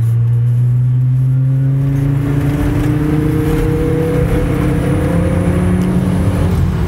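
Turbocharged Volvo five-cylinder engine with a new C70 exhaust, heard from inside the cabin, pulling hard under boost: its note rises steadily for about five seconds, then drops near the end.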